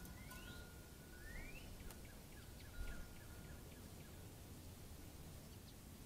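Faint small-bird calls: a thin held whistle that stops about half a second in, two quick rising chirps, then a rapid run of short notes, with a soft low thump near three seconds in.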